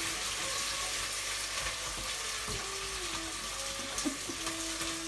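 Diced onion and carrot sizzling in hot oil in a pan: a steady frying hiss, with a few faint clicks.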